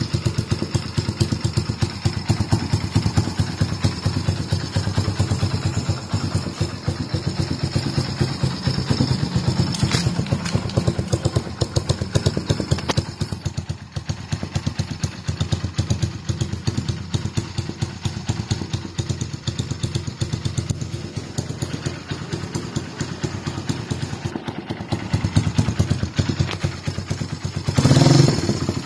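Kawasaki W175's single-cylinder four-stroke engine idling through an aftermarket full-stainless slip-on exhaust, a fast, even train of exhaust pulses. The throttle opens about a second before the end, and the exhaust gets louder.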